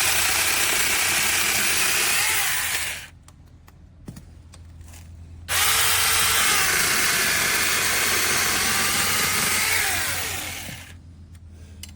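SEESII brushless battery mini chainsaw running in two long bursts, with a quieter gap between them; its motor whine wavers in pitch. The first burst stops about three seconds in, and the second starts abruptly about halfway through and dies away near the end.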